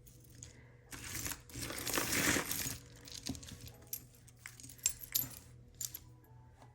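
Metal costume jewelry clinking and jangling as pieces are rummaged through and handled. About a second in there is a stretch of rustling and shuffling, followed by scattered sharp clinks.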